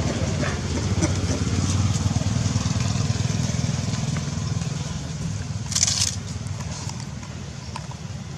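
A motor engine running steadily, loudest about two seconds in and fading away after about four seconds. There is a short hissing burst about six seconds in.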